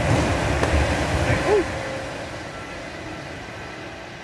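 Electric passenger train running under the bridge and away along the track, the rumble of its wheels on the rails loud at first and then fading steadily.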